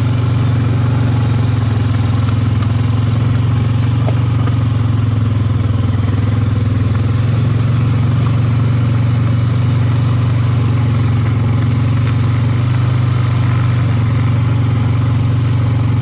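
ATV engine running at a steady, even speed while riding along a farm trail.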